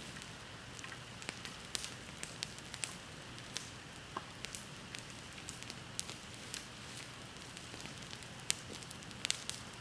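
Wood bonfire crackling, with irregular sharp pops and snaps over a steady soft hiss; a few louder pops come near the end.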